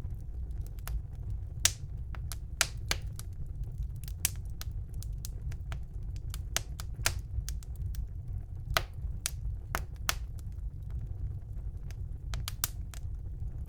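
Wood fire crackling in a fireplace: irregular sharp pops and snaps, a few loud ones among many small ones, over a steady low rumble.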